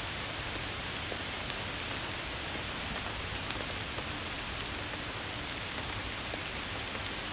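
Steady rain falling: an even hiss with scattered single ticks of drops.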